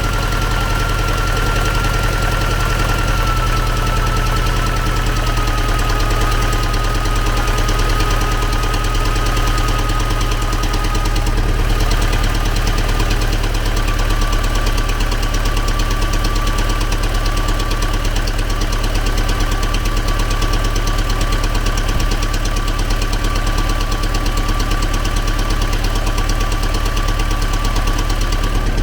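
T-40AM tractor's air-cooled diesel engine running steadily at a fast idle after a cold start in frost, with a fast even pulsing and a thin high whine that drops slightly in pitch in the first few seconds, then holds steady.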